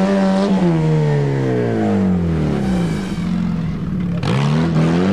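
Off-road race vehicle's engine revving. Its pitch falls off over about three seconds, then climbs again near the end, with a brief burst of noise about four seconds in.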